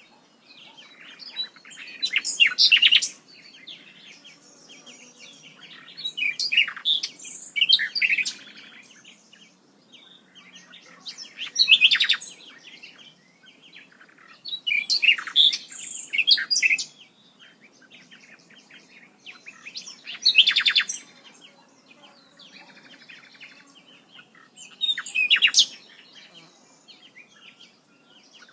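Birds singing: short bursts of rapid high chirping about every four to five seconds, with fainter calls in between.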